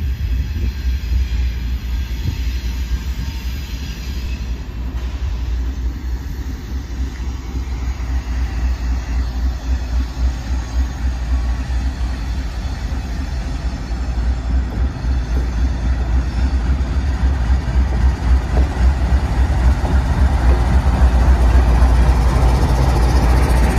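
Norfolk Southern freight train with a GE Dash 9 diesel-electric locomotive leading, approaching and rolling past slowly. A continuous low diesel and wheel rumble grows louder toward the end as the locomotives draw level.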